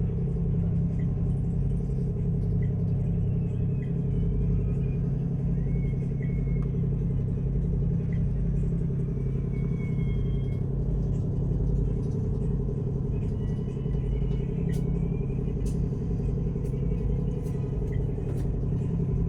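Ship's engines heard on board as a steady low drone, with a few faint short chirps above it.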